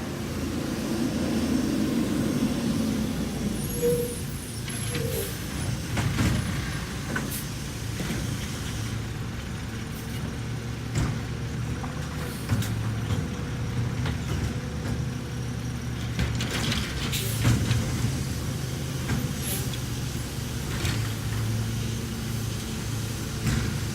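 Garbage truck's diesel engine running steadily, with scattered sharp knocks and clanks and short air-brake hisses.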